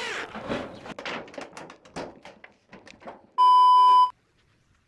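A run of quick knocks and taps from work on the tin roof sheet, then a loud electronic beep about three and a half seconds in: one steady tone for under a second that cuts off suddenly.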